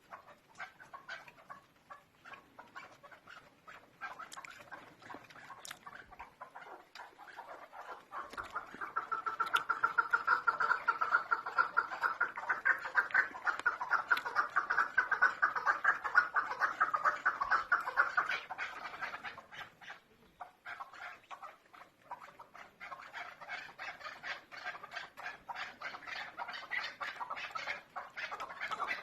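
Chukar partridge calling: a rapid run of repeated clucking 'chuk' notes. The calls swell loudest from about a third of the way in, fall back about two-thirds through, then pick up again near the end.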